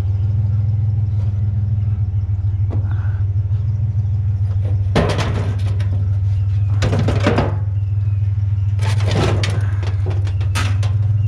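Truck engine idling steadily with a low hum. Several short bursts of metal clattering are heard about five, seven, nine and ten and a half seconds in, as scrap metal is handled.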